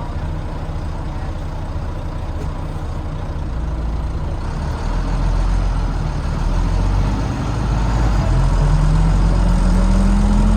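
Volvo B9TL double-decker's D9B diesel engine heard from the back seat: low running at first, then louder from about halfway as the bus pulls harder. Near the end a rising whine climbs in pitch as the bus accelerates. The owner can't place this noise and wonders whether it is the gearbox, cooling fan or axles.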